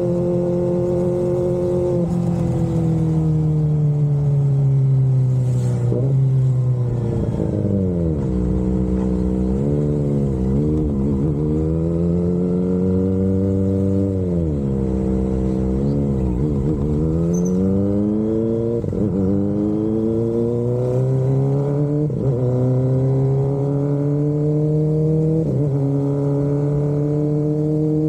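Kawasaki Ninja ZX-25RR's 249 cc inline-four running through an Austinracing aftermarket exhaust, engine speed changing slowly: it falls for several seconds, dips and rises twice, then climbs gradually for the last ten seconds with a few brief breaks.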